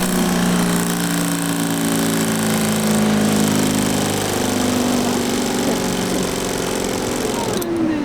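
A machine motor running steadily, its hum wavering slightly in pitch, then stopping abruptly near the end.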